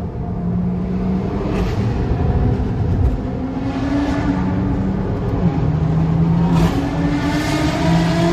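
Car engines running and revving, the pitch rising under acceleration, with several short loud surges.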